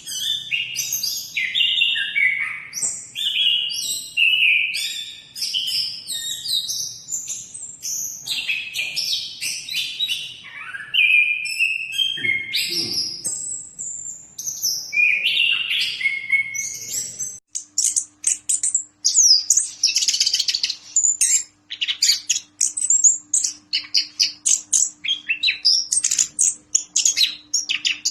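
Chestnut-capped thrush (anis kembang) singing a long run of varied, loud whistled and gliding phrases. About 17 seconds in, the sound switches to a faster stream of short, high chattering notes over a faint steady hum.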